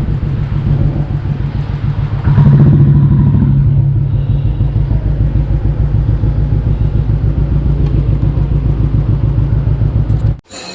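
Royal Enfield Bullet Electra 350's single-cylinder engine running at low speed with an even, rapid pulse, getting louder briefly about two seconds in as the throttle opens, then holding steady; the sound cuts off suddenly just before the end.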